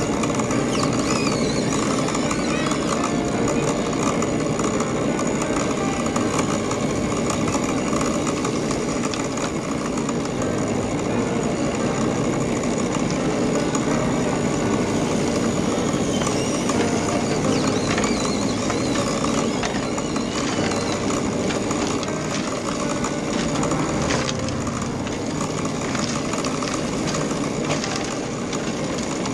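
Radio-controlled model trucks and construction machines running: small electric motors and gearboxes whining, rising and falling in pitch, over a steady background din.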